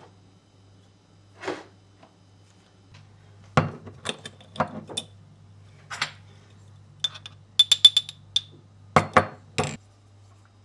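Dishes and glassware being handled: a series of separate knocks and clinks, with a quick run of ringing clinks about eight seconds in, over a faint steady low hum.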